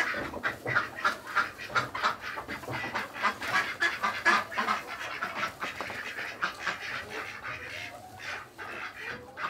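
Ducks quacking in a quick, continuous run of short calls, several a second.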